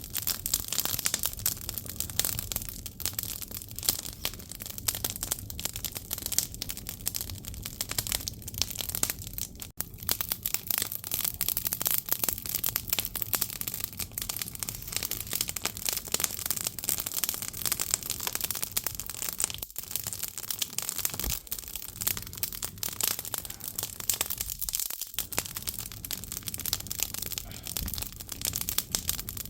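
Firewood burning in an agungi, a traditional Korean wood-fired firebox: a steady, dense crackling of the burning logs, full of small sharp pops.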